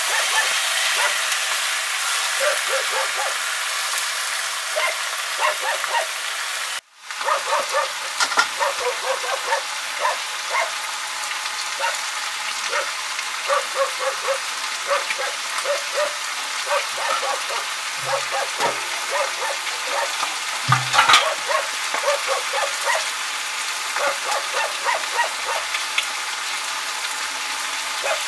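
Chicken meat sizzling in an iron pan over a wood fire, a steady frying hiss with many small pops and crackles. The sound cuts out for a moment about seven seconds in, and a brief louder sound stands out about three-quarters of the way through.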